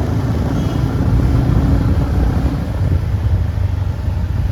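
Motorbike engine running steadily with road and wind rumble while riding uphill.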